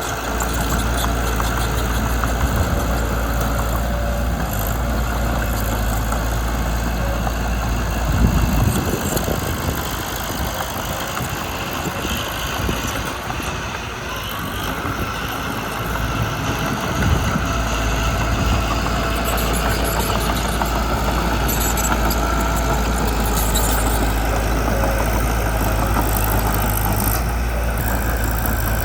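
Mitsubishi BD2 bulldozer's diesel engine running steadily. Its low rumble drops away for several seconds in the middle, then comes back.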